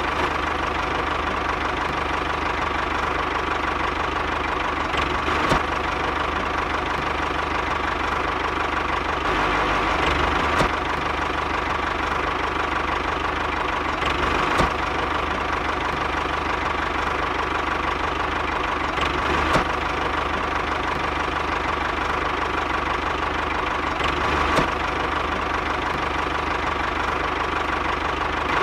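Small motor of a DIY mini machine running steadily with a constant whine. A faint click comes every four to five seconds.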